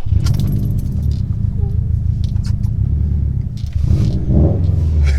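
2019 Subaru WRX STi's turbocharged 2.5-litre flat-four idling through a Remark cat-back exhaust with the mufflers deleted, a steady low rumble. It grows a little louder about four seconds in, like a light touch of throttle.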